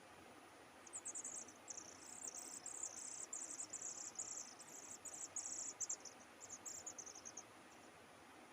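Insect chirping, cricket-like: a high-pitched trill broken into quick bursts that starts about a second in and stops shortly before the end, over a faint steady hiss.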